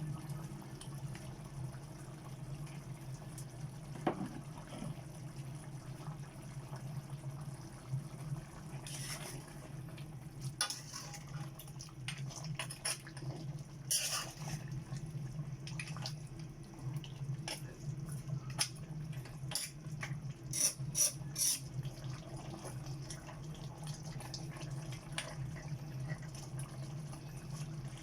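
Water sounds in a kitchen, with a steady low hum beneath and a few sharp clinks, several close together about three quarters of the way in.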